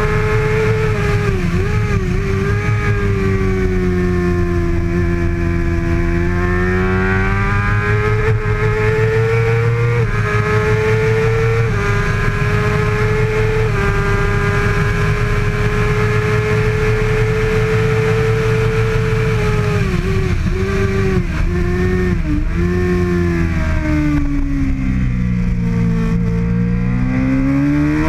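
Kawasaki ZX-6R's 636 cc inline-four racing engine held at high revs, stepping through gears along a straight. About twenty seconds in it drops through several quick downshifts. The revs then sink low through a slow corner and climb again near the end. A steady rush of wind runs underneath.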